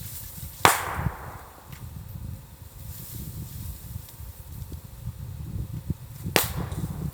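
Two loud bangs of bamboo culms bursting in a bonfire, the sealed sections splitting as the air trapped inside heats up; one comes just under a second in, the other about six seconds later, over a low steady rumble.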